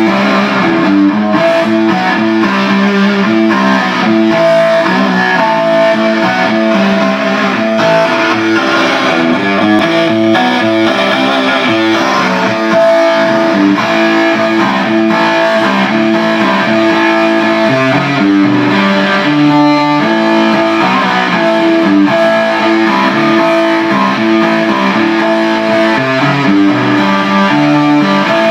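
Guitar music played through a 10-watt 6AQ5 valve amplifier: a continuous run of plucked, repeating guitar notes.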